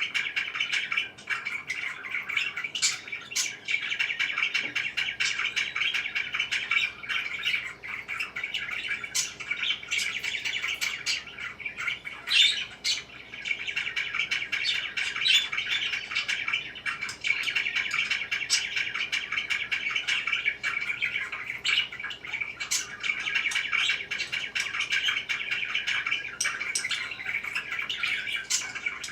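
Parakeets chattering and chirping without pause, with frequent sharp higher chirps and occasional squawks over a steady warble.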